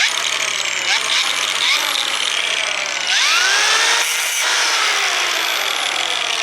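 Electric power cutting tool switched on and cutting through fence panel, a loud harsh running sound that starts abruptly and holds steady, with the pitch shifting as it bites.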